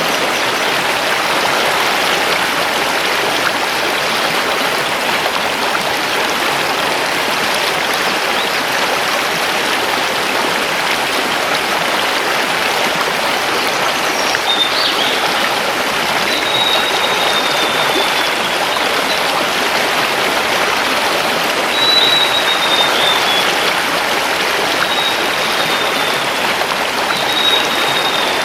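Mountain river rushing over stones, a steady, even rush of water. From about halfway through, a bird sings several short, high, thin notes that slide slightly downward.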